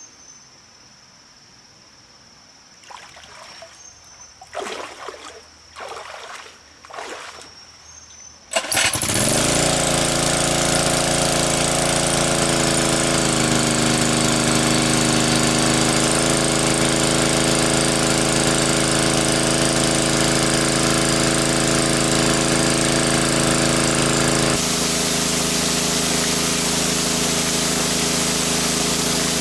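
A small engine starts suddenly about a third of the way in and then runs loud and steady at an even pitch. Before it there are a few seconds of quiet with a steady high insect-like tone and a few light knocks.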